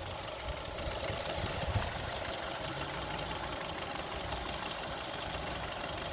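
2002 Honda CR-V's 2.4-litre four-cylinder engine idling roughly and unevenly, the idle speed unstable.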